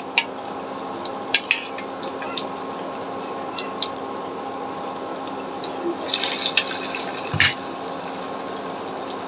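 Battered potato-roll cubes deep-frying in hot oil in a kadai: a steady sizzle with scattered pops, a run of crackling about six seconds in, and a single knock just after seven seconds in.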